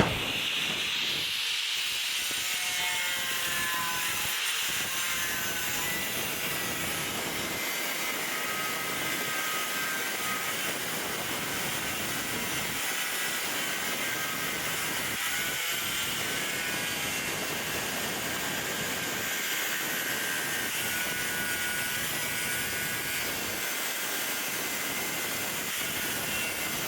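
Makita angle grinder with a Cortag turbo diamond disc for porcelain tile, cutting a 45-degree bevel in porcelain tile: a steady grinding hiss with a faint whine, held without a break.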